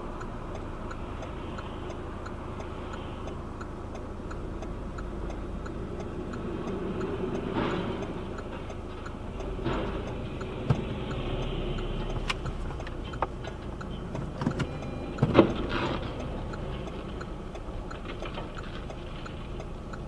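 Low road and engine rumble of a car in motion, with a steady faint ticking throughout and a few sharp knocks, the loudest a little past the middle.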